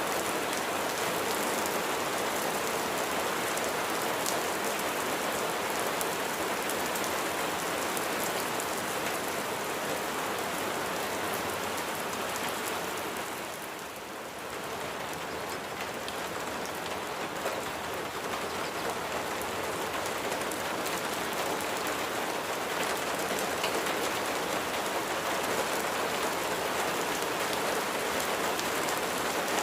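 Steady rain falling: a dense hiss made of many small drop hits, dipping briefly in loudness about halfway through.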